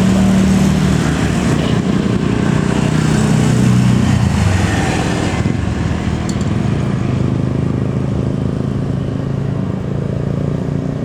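Jet airliner engine noise, loud and steady, with a broad hiss that fades about halfway through as the aircraft moves away.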